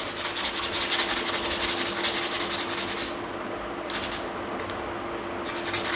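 Emery sheet rubbed in quick back-and-forth strokes against the metal needle-like pin of a gas stove lighter, scouring off dirt and rust. The rubbing breaks off a little past halfway, then picks up again.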